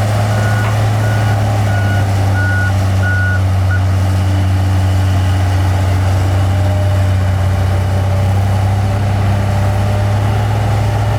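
Heavy diesel earthmoving machine running steadily, with its back-up alarm beeping at a regular pace while it reverses. The beeping stops about four seconds in and the engine keeps running.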